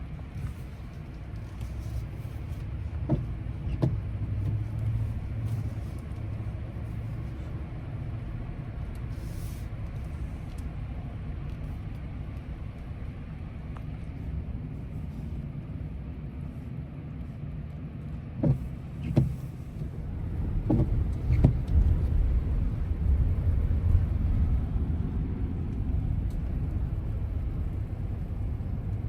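A Ram 1500 pickup with a Hemi V8 being driven in four-wheel drive: a steady low rumble of engine and road, with a few short knocks. The rumble grows somewhat louder from about two-thirds of the way through.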